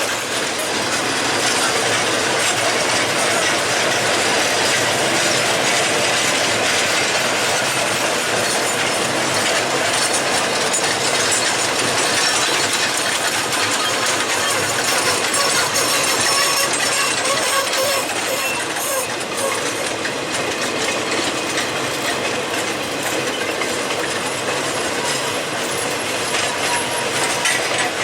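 Freight cars of an ore train rolling past close by: a steady clatter of steel wheels over rail joints, with metallic clanks and rattles.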